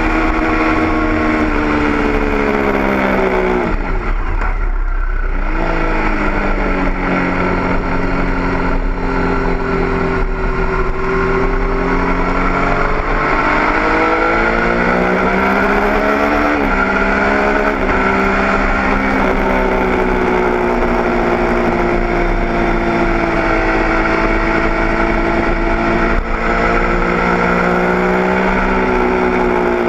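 Triumph Daytona 675's three-cylinder engine at speed on track, heard close up with steady wind rush: the revs drop sharply about four seconds in, then climb again, with several sudden pitch steps as the gears change.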